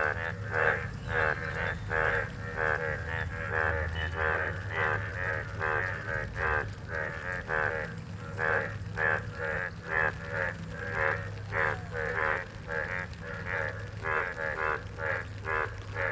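Frogs calling in a dense chorus: short pulsed croaks repeated about two to three times a second, several overlapping, over a steady low hum.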